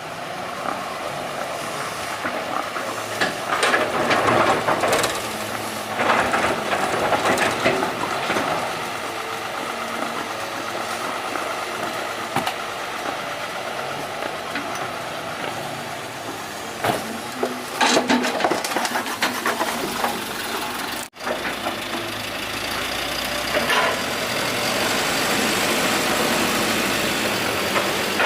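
Doosan 140 excavator's diesel engine running under load while it digs, with louder clattering stretches several times and a momentary break about two-thirds of the way through.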